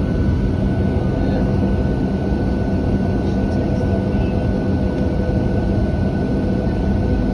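Boeing 737-700 cabin noise during departure: the CFM56-7B turbofan engines and rushing air make a steady, loud low rumble with a constant whine on top. There is no change in pitch or level.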